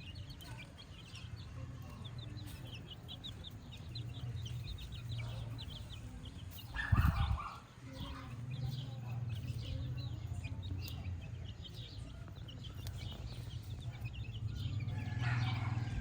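A flock of free-range chickens clucking and chirping, many short calls over a steady low rumble, with one brief louder sound about seven seconds in.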